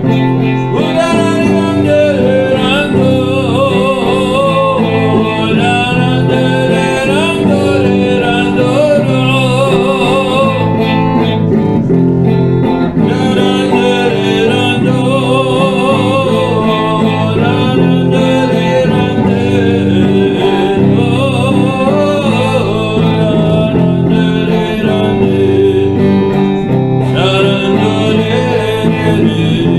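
Worship band music: an instrumental passage with guitar, playing steadily with no words sung.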